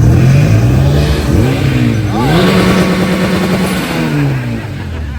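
Car engine running loud and revving: its pitch climbs about a second and a half in, holds high for about a second and a half, then falls away.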